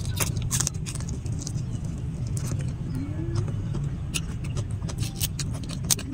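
Roasted shrimp being chewed close to the microphone: irregular sharp, crackly clicks from the mouth, with a shrimp's shell being pulled apart near the end. A steady low rumble runs underneath.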